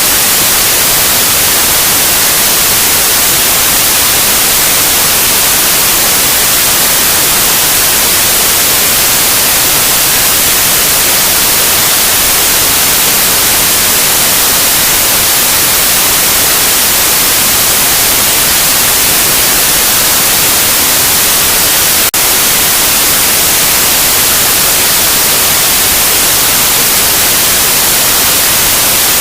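Loud, steady white noise, a continuous even hiss, with one brief tick about three-quarters of the way through.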